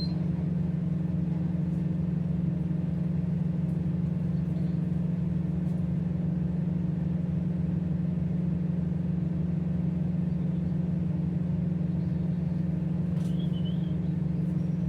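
Tugboat's diesel engines running steadily, a constant low drone with no change in pitch or level.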